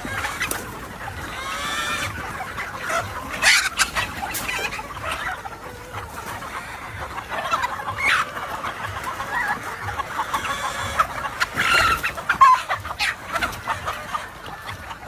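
Many gamefowl chickens clucking and calling over one another, with roosters crowing now and then.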